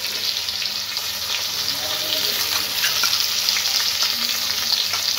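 Hot oil sizzling in a kadai as chopped tomato and whole spices fry, with a flat metal spatula scraping and stirring against the pan. A wet spice paste goes into the hot oil and fries along with them.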